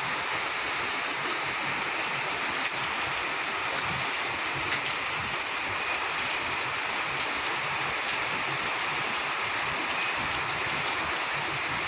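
Steady heavy rain falling and running, an even hiss without a break.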